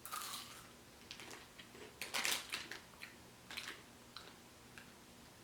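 Faint, irregular crunches and small crackles of a person biting and chewing a crisp Caplico wafer stick, the loudest crunch about two seconds in.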